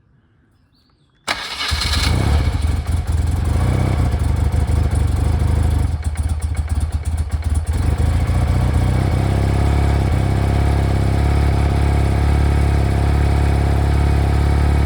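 1992 BMW R100GS Paris-Dakar's air-cooled boxer twin starting from cold on half choke: it fires up suddenly about a second in, runs unevenly for several seconds, then settles into a steady idle.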